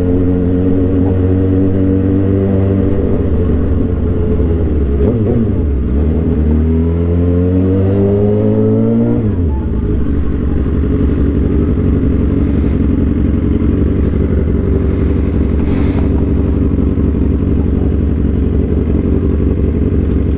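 Suzuki GSX-R 750's inline-four engine through an Orion aftermarket exhaust: the engine note holds steady, falls away, then climbs smoothly for about three seconds as the bike accelerates. Just after the midpoint it drops abruptly to a steady low rumble that continues to the end.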